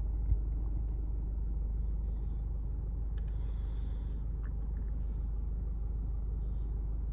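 Mercedes-Benz C220d's four-cylinder diesel engine idling, heard from inside the cabin as a steady low rumble. A single short click sounds about a third of a second in.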